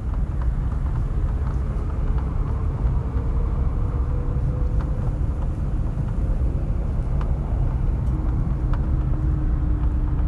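Car driving slowly: a steady low rumble of engine and road noise, with a few faint ticks.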